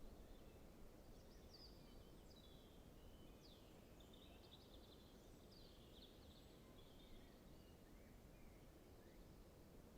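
Faint outdoor ambience: distant small birds chirping and twittering on and off, over a low steady rumble.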